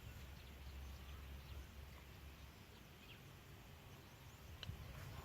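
Faint outdoor ambience: a low steady rumble of wind on the microphone, with a few scattered bird chirps, the clearest near the end.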